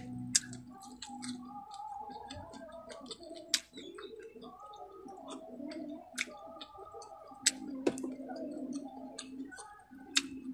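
Close-miked mukbang eating: wet chewing with frequent sharp mouth clicks and lip smacks, a few of them much louder than the rest.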